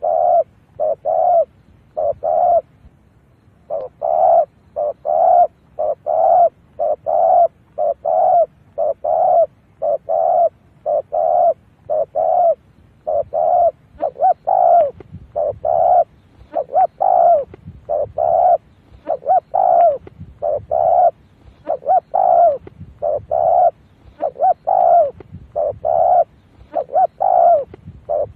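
Spotted dove cooing over and over: short low coos at about one a second in running phrases, with a brief pause near the start. It is the calling of a decoy dove, used to draw wild doves in.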